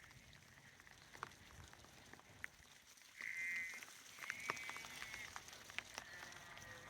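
Sheep bleating three times, starting about three seconds in, each bleat a high wavering call lasting around a second, over scattered light ticks.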